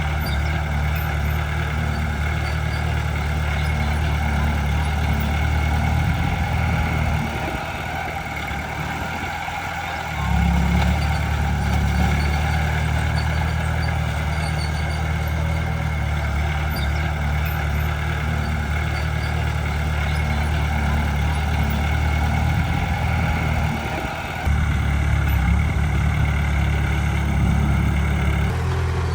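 Heavy diesel engine of earthmoving machinery running with a steady low drone. It eases off for a few seconds and picks up again about ten seconds in, then dips briefly and comes back louder near the end.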